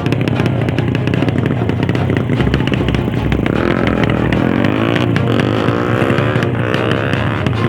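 Drag-racing motorcycle engines revving hard. About halfway through, the pitch climbs in several rising sweeps, one after another.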